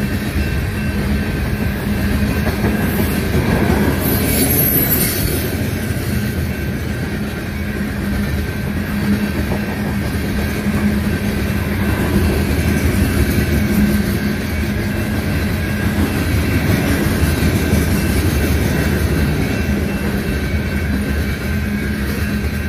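Union Pacific coal train's hopper cars rolling past at speed, a steady rumble and clatter of wheels over the rails with a steady high tone over it and a brief hiss about four seconds in.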